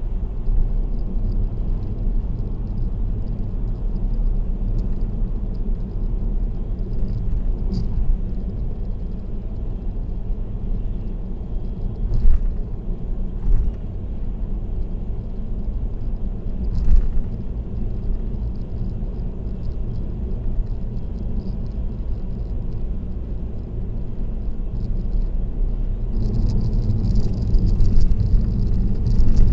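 Car road noise at expressway speed: a steady low rumble of tyres and engine, with a few short knocks partway through and a rattle near the end.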